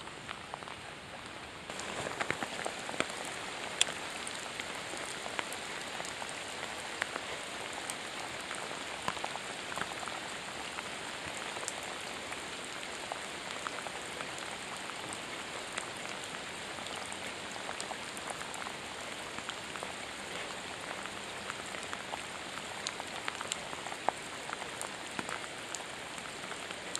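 Rain falling steadily on a river's surface: an even hiss dotted with many small drop ticks, getting a step louder about two seconds in.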